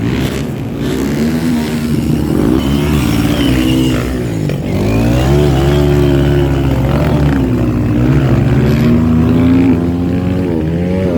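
Off-road motorcycle engines revving, their pitch rising and falling again and again as the throttle is opened and closed, with more than one engine heard at once at times.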